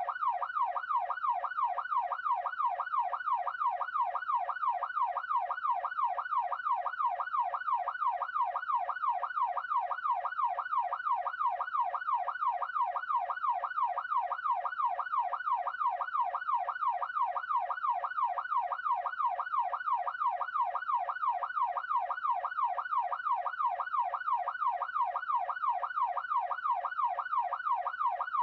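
Police siren in a fast yelp: one tone sweeping up and down about twice a second, steady and unbroken.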